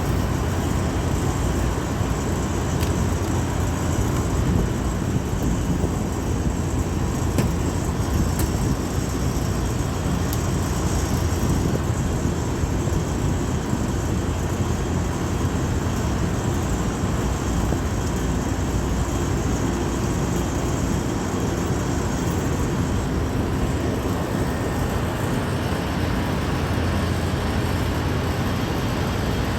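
Steady low mechanical drone with an even hiss above it, running without change, and a few faint clicks.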